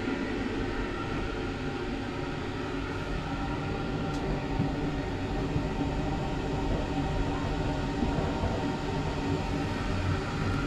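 ÖBB Nightjet couchette carriage pulling slowly out of the station, heard from inside: a steady rolling rumble with several steady hums.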